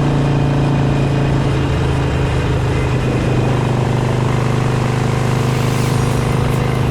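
Harley-Davidson Sportster's V-twin engine running steadily under way, its pitch easing down slightly about two seconds in as the revs drop.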